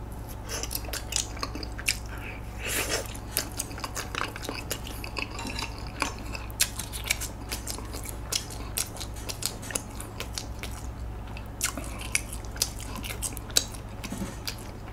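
Chewing and biting spicy tteokbokki with shredded green onion: irregular wet mouth clicks and crunches, with chopsticks now and then clicking against the pan and plate.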